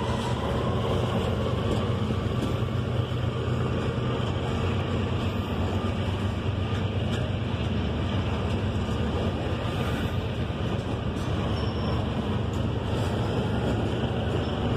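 Loaded coal hopper cars of a freight train rolling past close by: a steady rolling noise of steel wheels on the rails, with a few faint clicks.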